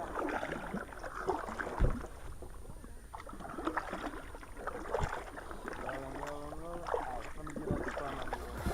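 Sounds of a kayak on the water: water sloshing and lapping against the hull, with scattered small knocks and clicks.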